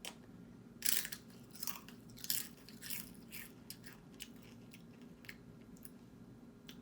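Crisp tortilla chips, Flamin' Hot Limon Doritos, being bitten and chewed with sharp crunches, thick in the first few seconds and then thinning to scattered crackles.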